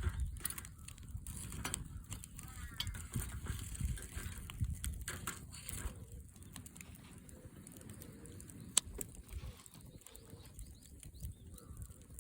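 Firewood crackling in a Coleman Fireplace 3 fire stand, with scattered sharp pops over a low, uneven rumble of wind on the microphone. A bird chirps briefly about three seconds in.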